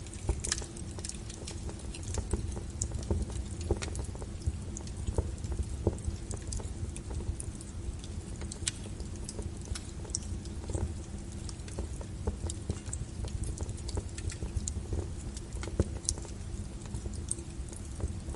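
Wood fire of burning logs crackling: irregular sharp pops and snaps, a few louder than the rest, over a steady low rumble.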